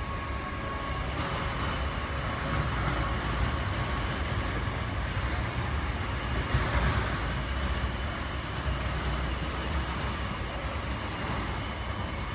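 Steady low rumble of airport apron noise, with faint steady high whining tones running through it.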